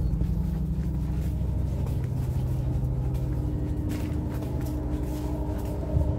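Steady low rumble and hum inside a Thai express train's sleeper carriage. A steady tone joins about halfway through, and there is a short knock near the end.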